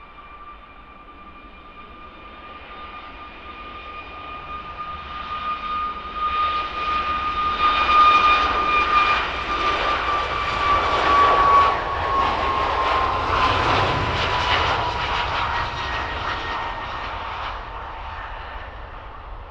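Jet aircraft passing by, its engine whine and rushing roar swelling to a loud peak and then fading, the whine dropping slightly in pitch as it goes past.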